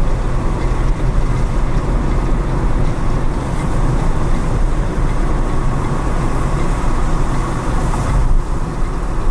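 Car driving through city traffic on wet pavement: steady low engine and road rumble with tyre hiss, and a brief swell of hiss about eight seconds in.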